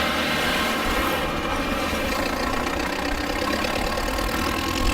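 Tractor engine idling steadily, with an even, rapid firing beat.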